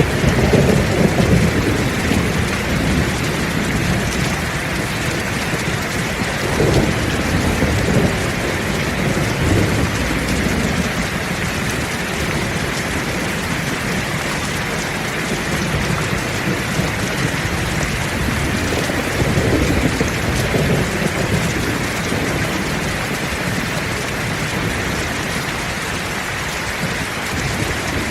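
Heavy rain falling steadily, with low rolls of thunder rumbling at the start, again about seven to ten seconds in, and once more around twenty seconds in.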